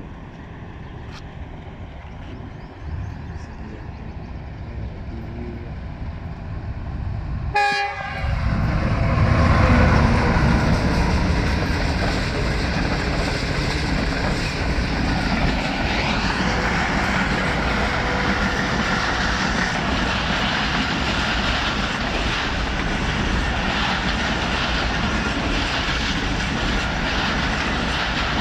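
Express train hauled by a GEU 40 diesel-electric locomotive approaching with a rising rumble. A short horn sounds about seven seconds in. The train then passes at speed: a loud, steady rush of coaches with wheels clicking over the rail joints.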